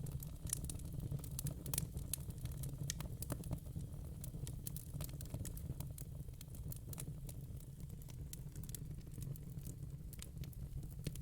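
Burning logs in a fire pit crackling: irregular sharp pops and snaps over a low, steady rumble.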